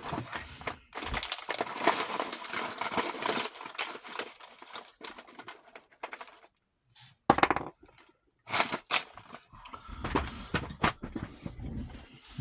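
Small metal tools and parts clattering and rattling as they are rummaged through and handled, with a short pause and then a few sharp knocks.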